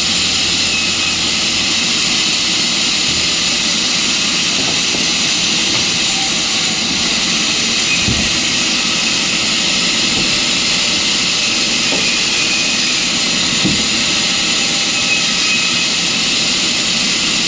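Sawmill machinery running steadily: a loud, even mechanical hiss and whine, with a couple of brief knocks.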